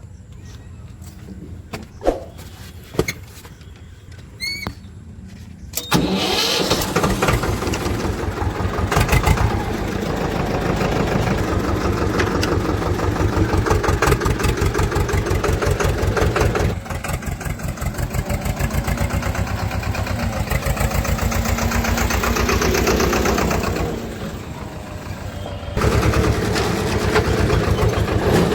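Swaraj tractor's diesel engine starting about six seconds in, after a few clicks, then running with a fast, even clatter. Its level drops twice and picks up again near the end.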